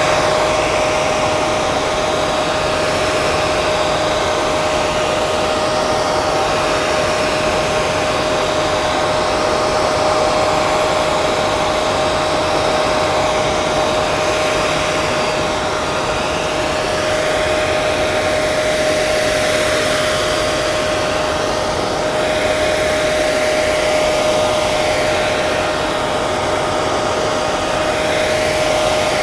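Handheld hair dryer running steadily: a continuous rush of blown air with a steady motor hum at one pitch.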